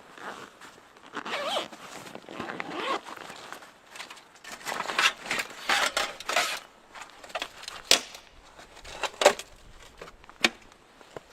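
Irregular rustling and scraping swishes with a few sharp clicks and knocks, like gear or fabric being handled.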